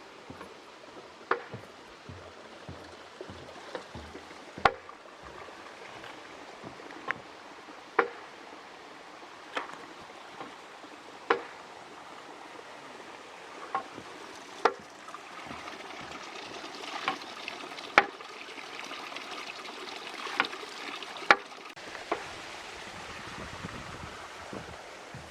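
Small stream trickling steadily, growing louder for a while past the middle, with sharp clicks every second or two.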